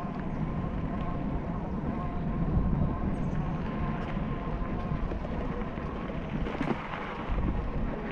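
Wind rushing over the microphone and road noise while riding a bicycle, with a faint steady hum underneath.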